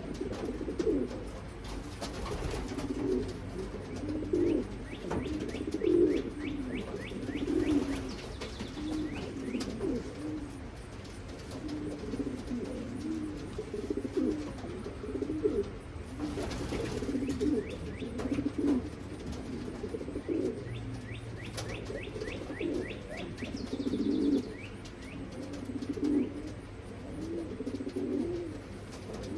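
Racing pigeons cooing over and over, the coos overlapping without a break.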